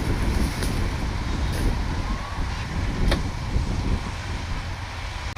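Kubota DC-105X combine harvester running with a heavy, steady low engine rumble and mechanical noise, working through lodged rice. A sharp click sounds about three seconds in, and the machine gets a little quieter near the end.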